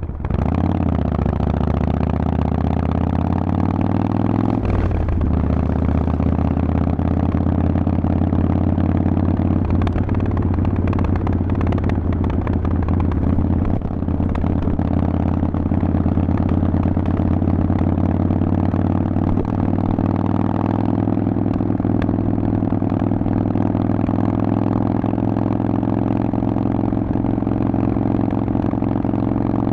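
Harley-Davidson Forty-Eight's 1200 cc V-twin running through a Vance & Hines exhaust under way. The engine note climbs for the first few seconds, drops briefly at a gear change about five seconds in, then holds a steady, slowly rising note while cruising.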